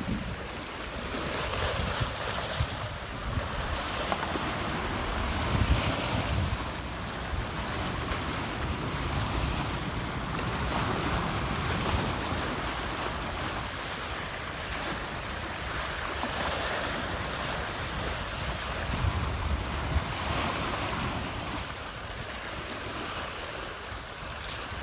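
Sea water washing and lapping, with wind buffeting the microphone in gusts.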